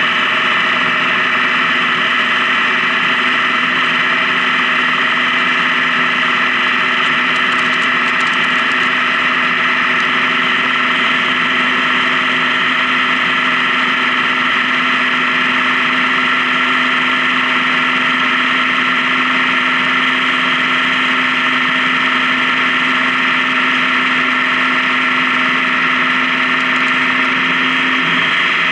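Honda Gold Wing touring motorcycle running at a steady cruise, its engine note holding an even pitch over road noise.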